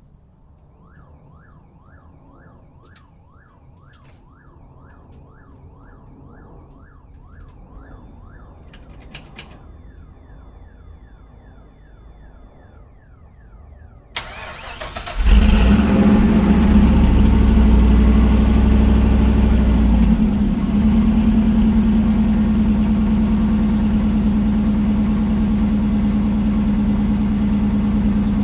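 Chevrolet El Camino engine cold-started after sitting a couple of weeks: it cranks briefly and fires right up about halfway through, then runs at a fast idle that settles a little lower a few seconds later. Before the start, faint quick repeating chirps.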